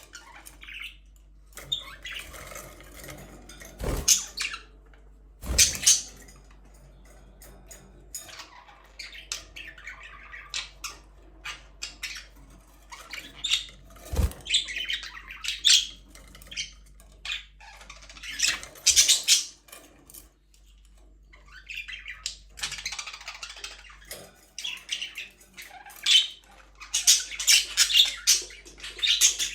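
Several budgerigars chirping and squawking in quick, overlapping calls, with a few sharp knocks.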